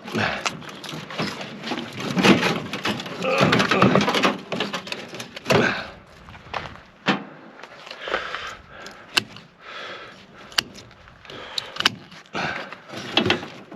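Irregular scraping, rattling and sharp clicks of sheet-metal casing and parts being handled while a microwave oven is taken apart by hand to reach its transformer.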